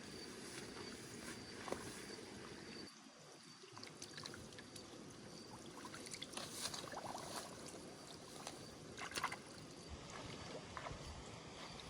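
Water sloshing and splashing over a steady outdoor hiss, with a few clusters of brief splashes or knocks in the second half.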